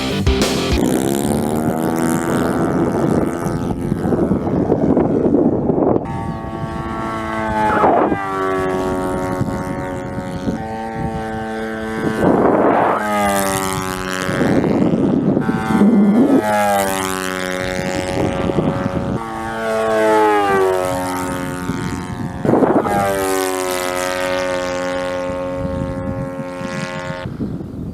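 Model airplane's Thunder Tiger 91 glow four-stroke engine running in flight, its pitch rising and falling as the plane makes several fast low passes and drops in pitch each time it goes by. Wind buffets the microphone.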